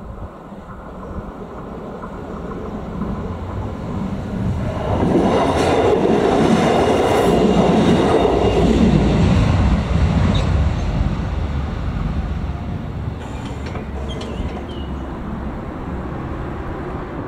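Arriva class 845 diesel railcar passing over a level crossing. It grows louder, is loudest for about five seconds in the middle, then fades as it moves away.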